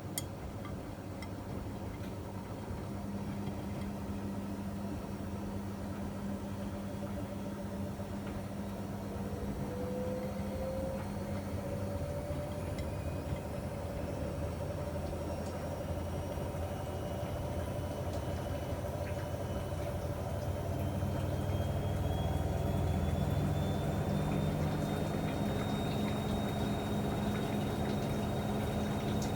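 Miele MedicWash W2585 washing machine running, with a steady low hum. From about a third of the way in, a motor whine rises slowly in pitch and then levels off near the end, as the drum speeds up.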